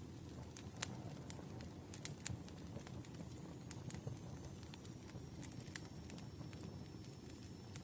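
Wood fire burning, with irregular sharp crackles and pops of the logs over a steady low rumble. A faint high thin whistle comes in about four seconds in.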